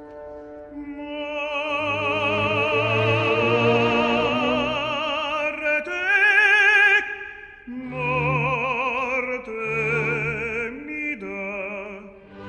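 Opera music: a singer holding long notes with wide vibrato over sustained orchestral accompaniment.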